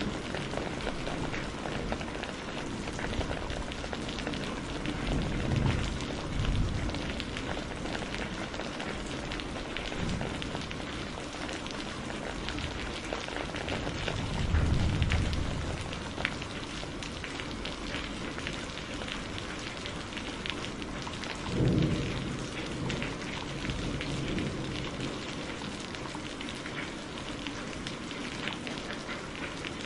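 Steady rain with a fire crackling, and a few low rolls of thunder, the loudest about halfway through and another about two-thirds in.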